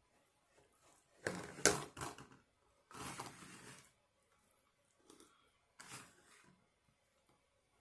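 Close-miked eating and food-handling sounds: a few short bouts of crisp clicking and crunching, the loudest about a second and a half in, with quieter ones near the end.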